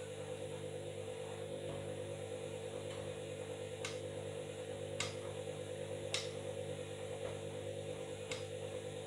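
Washing machine running with a steady motor hum and four sharp clicks in the second half.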